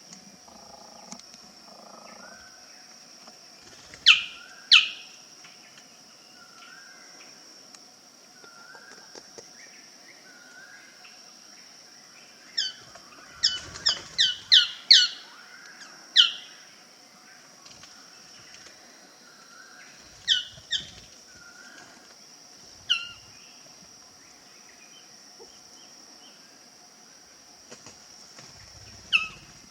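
Male Magnificent Bird-of-paradise calling: short, loud notes that drop sharply in pitch, given singly and in pairs, with a quick run of about seven in the middle. A steady high drone runs underneath.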